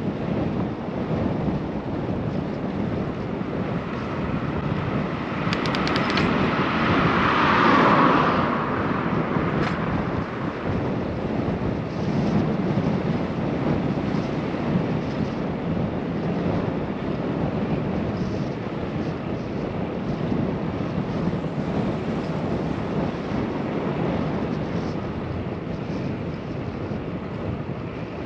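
Wind rushing over an action camera's microphone during a bike ride, a steady noisy rush. A louder swell builds from about five seconds in, peaks around eight seconds and fades by ten.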